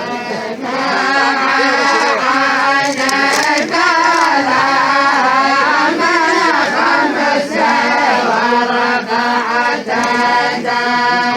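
A group of voices chanting together in a traditional southern Saudi tribal chant (tarq) sung for the lu'b folk dance, a drawn-out, wavering melody held by the whole group.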